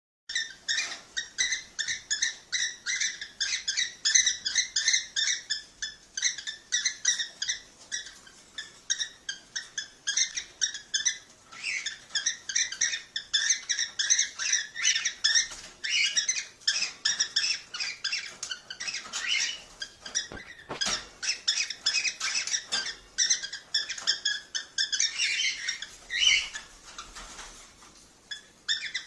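Cockatiels chirping in a dense, continuous run of short, sharp calls, several a second, starting abruptly and easing off briefly near the end.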